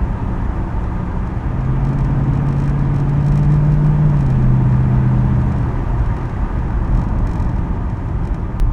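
Ford Crown Victoria Police Interceptor's 4.6-litre V8 running through its custom quad-tip exhaust: the engine note swells, steps down in pitch about four seconds in, and fades a couple of seconds later over a steady low rumble.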